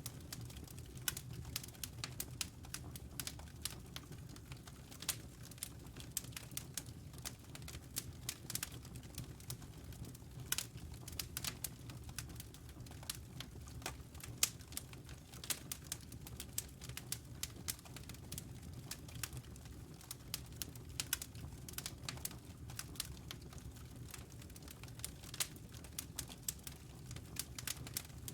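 Wood fire crackling with frequent irregular sharp pops and snaps over a steady low rumble.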